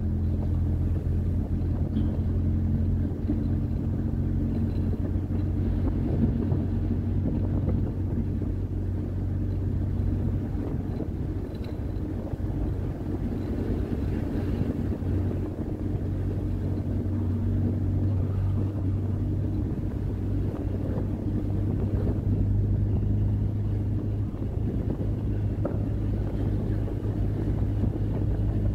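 MGB fitted with a Rover K-series four-cylinder engine, cruising along at a steady speed. The engine holds a steady low note, with wind noise over it, and the pitch shifts slightly about two-thirds of the way through.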